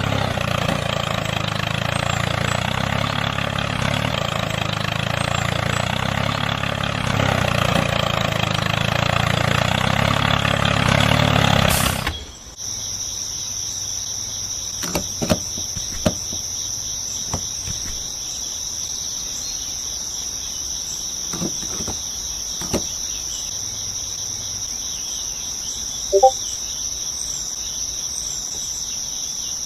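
A small motor, the DIY mini tractor's engine, runs steadily and then cuts off suddenly about twelve seconds in. After that, crickets chirp in a steady high trill, with a few scattered light clicks and taps.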